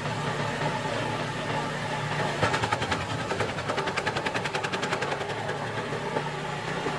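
Gas-powered wood chipper's engine running steadily, with a fast clatter as branches are chipped. The clatter is loudest from about two and a half to five seconds in.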